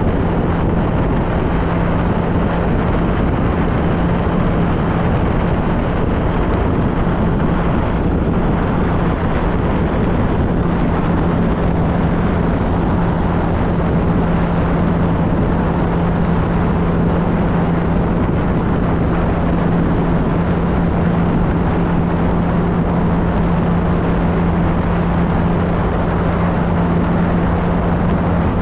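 2013 Triumph Trophy SE's 1215 cc inline-three engine running at a steady cruising speed, with wind and road noise. The engine hum holds one pitch throughout.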